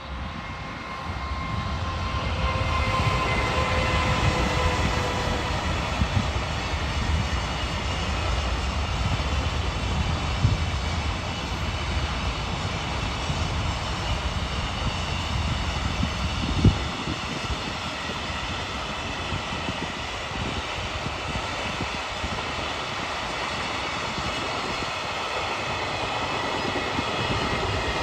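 Freight train passing on a curved stretch of track: a heavy low rumble with a high ringing tone in the first few seconds, a sharp clank about two-thirds of the way through, after which the rumble drops away to the lighter, steady rolling of the wagons on the rails.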